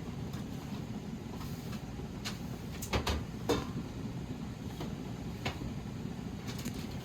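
Kitchen utensils and cookware being handled: scattered light clicks and clinks, with a few louder knocks about three seconds in, over a steady low hum.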